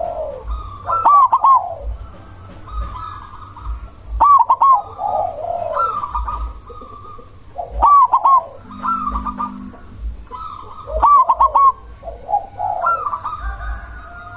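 Zebra dove (perkutut) of the black cemani variety singing its cooing song, a phrase of quick coos followed by a lower drawn-out coo, repeated about every three to four seconds, over a steady high-pitched whine.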